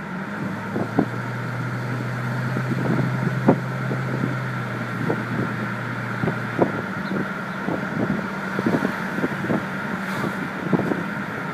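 Turbocharged Ford Mustang GT's 4.6-litre V8 running at a steady cruise, heard from the open convertible with wind buffeting the microphone; about six and a half seconds in, the low engine note drops away as the car comes off the throttle.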